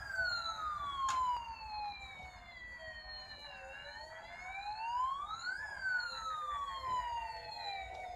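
Electronic wail siren of a Tatsumiya Mystery Action bump-and-go toy ladder fire truck, its pitch sliding slowly down and back up in a long cycle of about five to six seconds. A few sharp clicks sound over it.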